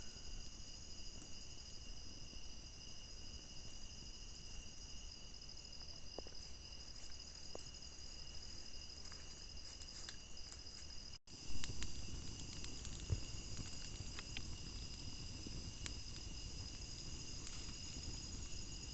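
Steady insect chorus, several high continuous trills at different pitches. About eleven seconds in the sound briefly drops out, and afterwards a low rumble and scattered clicks join the chorus.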